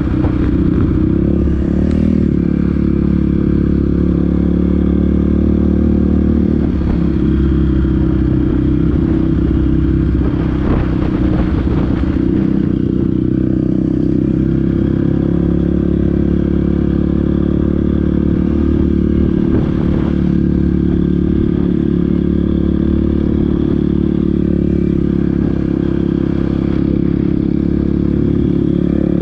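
Off-road vehicle engine running close at a fairly steady speed, with clattering and scraping from the ride over rough ground.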